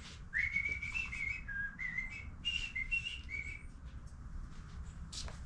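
A person whistling a short tune of several stepping notes for about three seconds, over a faint low steady hum, with a sharp click near the end.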